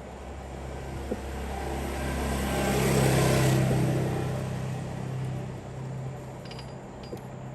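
An engine running with a low hum that swells to a peak about three seconds in and then dies back down.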